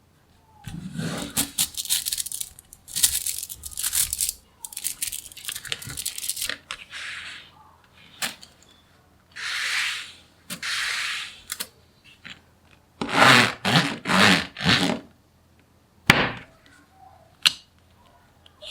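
Small magnetic balls clicking, rattling and scraping against each other as they are handled and snapped into place, in a series of rattling bursts with two sharp single snaps near the end.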